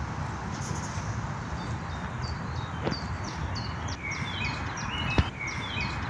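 Small birds chirping in quick, repeated short notes, starting a couple of seconds in and growing busier, over a steady low rumble. A sharp click a little after five seconds in is the loudest sound.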